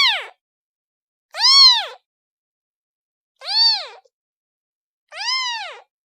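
A kitten meowing for its mother: four high, short meows about a second and a half apart, each rising and then falling in pitch.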